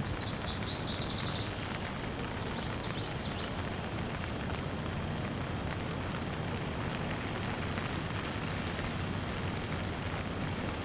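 Steady rain falling, with a bird giving a rapid high trill in the first second or so and a few fainter chirps soon after.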